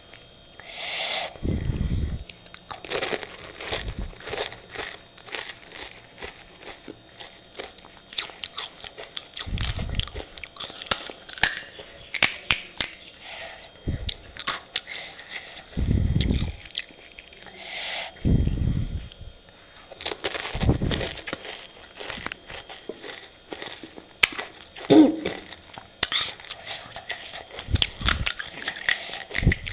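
Person eating pani puri: repeated biting, crunching and chewing of the crisp puri shells, with many sharp cracks and crackles and a few dull low thumps.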